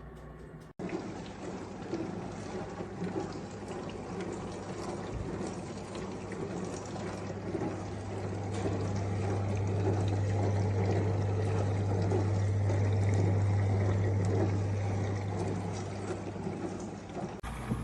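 AIRMSEN portable countertop dishwasher running: water pouring and splashing inside, over a steady low pump hum that grows louder from about halfway through and eases near the end.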